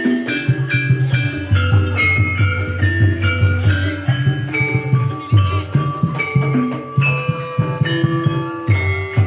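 Javanese gamelan-style music accompanying an ebeg dance: a quick melody of short struck notes on mallet-played keyed instruments over continuous drumming.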